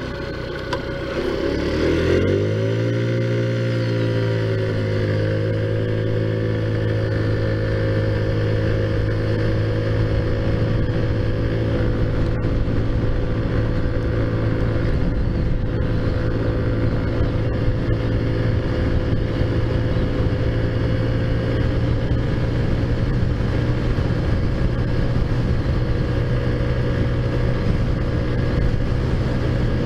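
Modified Taotao Zummer scooter's big-bore 50cc four-stroke engine under way: its revs climb over the first few seconds, then hold one steady pitch as the scooter rides on, with a constant rush of noise underneath.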